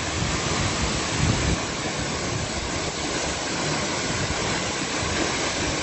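Large waterfall crashing down close by: a steady, dense rush of falling water, with gusts of wind and spray buffeting the microphone as low rumbles.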